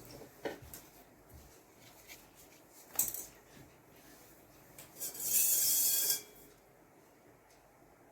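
Painting work on a surface: light rubbing and scraping, a short tap about three seconds in, and a louder rasping rub lasting about a second, about five seconds in.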